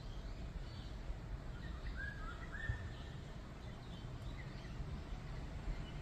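Forest birds calling, short scattered chirps and brief whistled notes, the clearest pair of notes about two to three seconds in, over a steady low rumble.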